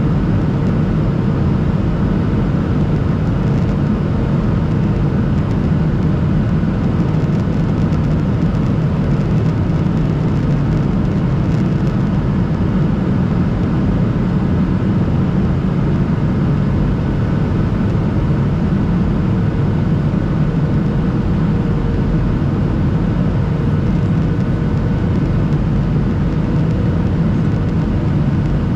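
Steady cabin noise of a Boeing 737-800 in climb: the drone of its CFM56 engines mixed with the rush of airflow, with a faint steady whine above it.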